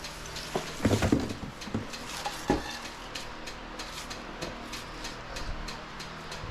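Electric cords being gathered up off a shop floor: scattered clinks and knocks of plugs and gear being handled, loudest about a second in and again at about two and a half seconds.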